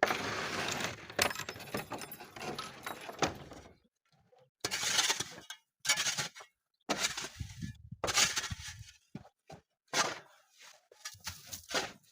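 Shovel scraping and breaking up packed, icy snow: one long scrape, then about six shorter strokes roughly a second apart.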